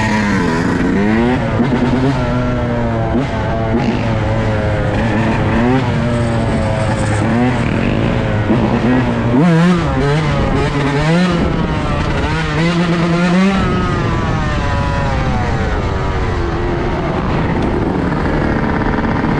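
Dirt bike engine revving up and down again and again as the throttle is worked, then settling to a steadier note for the last few seconds.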